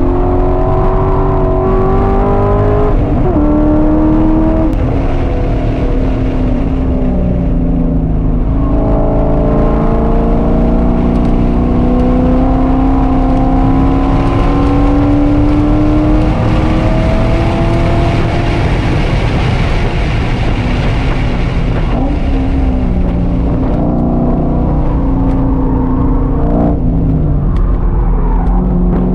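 A 2001 Corvette C5 Z06's LS6 V8, fitted with a stage 2 cam and long-tube headers, heard from inside the cabin while it is driven hard on a race track. The engine pitch climbs and drops with throttle and gear changes, including one long steady pull in the middle, with wind and tyre noise over it at speed.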